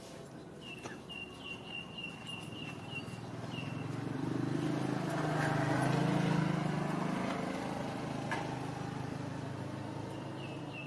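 A motor vehicle passes by: its engine swells up over a few seconds, peaks midway, then slowly fades. In the first few seconds a bird calls with a quick run of short high chirps, about four a second.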